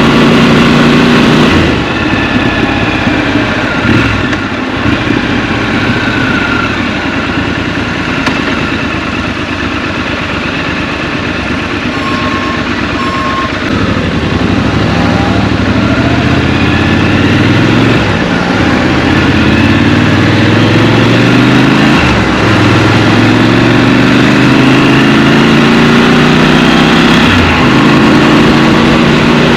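Scrambler motorcycle engine heard from the rider's seat: the engine note drops off about two seconds in and runs low and quieter for some ten seconds, then pulls away with the pitch rising several times in turn as it accelerates up through the gears.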